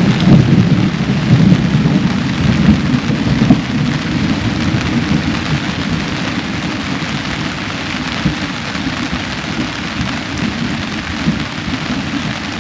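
Heavy thunderstorm downpour with a deep rumble of thunder underneath. It is heaviest in the first few seconds and eases off gradually as the downpour ends.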